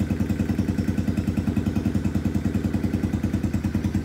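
Lifan KP Mini 150's single-cylinder four-stroke engine idling steadily with an even, rapid beat, still cold just after starting.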